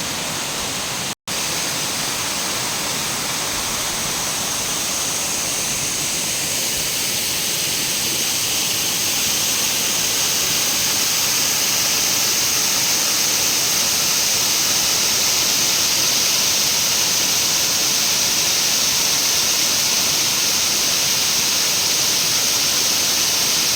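Waterfall, a steady rush of falling water. The sound cuts out for a split second about a second in, then grows louder over the next ten seconds or so.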